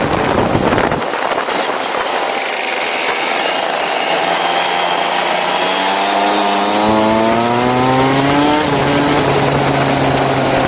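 Go-kart engine running at speed, its pitch climbing steadily for several seconds, then falling sharply about eight and a half seconds in, under a constant rushing noise.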